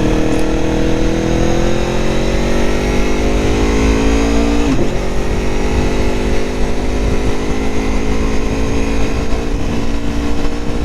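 Aprilia Tuono motorcycle engine pulling under acceleration, its pitch climbing steadily. There is a quick drop and recovery about halfway through at an upshift, then it climbs again, with wind rumble on the onboard microphone.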